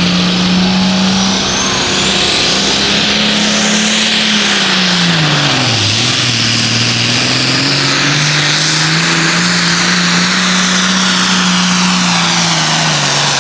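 Pulling tractor's engine running hard at high revs under load during a pull. The revs sag sharply about six seconds in, climb back, then fall off near the end, with a faint high whine over the engine.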